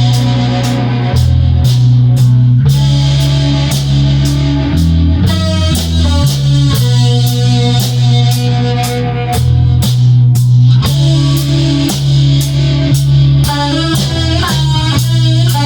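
Rock band playing an instrumental passage: electric guitar over bass guitar and a drum kit keeping a steady beat.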